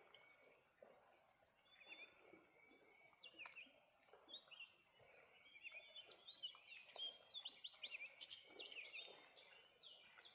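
Faint songbirds chirping and singing, several at once, with the calls coming thicker in the second half.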